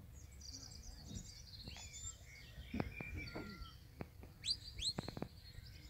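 Wild birds chirping and singing, with short high chirps and a pair of quick rising calls near the end, over a steady low rumble and a few sharp clicks.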